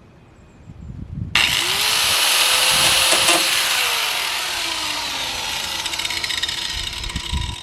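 Angle grinder starting up about a second in and cutting into the sheet-metal body of a school bus, a loud harsh grinding hiss over the motor's whine, which rises and then slowly sags in pitch as the disc bites.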